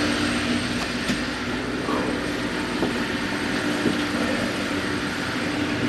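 Steady drone of ship machinery: a constant low hum under a rushing noise, with a few faint knocks.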